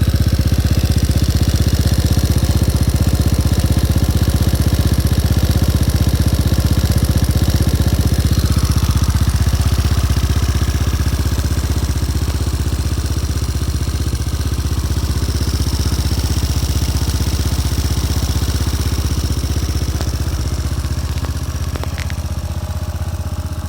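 Overhauled motorcycle engine idling steadily with an even, rapid firing beat, settling slightly quieter about halfway through.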